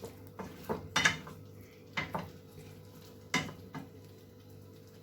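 Metal spoon clinking and knocking against a container, about eight irregular strikes, the loudest about a second in with a brief ring, as tomato paste is mixed with water.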